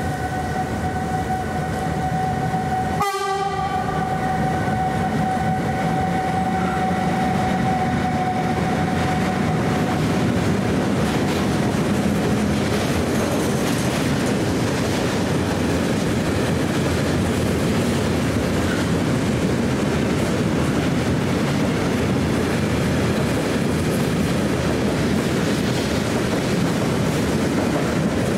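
Freight train of tank wagons passing close by. Steady high tones from the electric locomotive fade out within the first ten seconds, and the wagons' wheels then rumble and clatter over the rails without a break.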